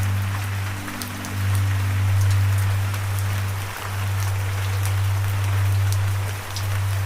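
Steady rain falling, with scattered sharp drips, over a low sustained drone of music that shifts to a new note a few times.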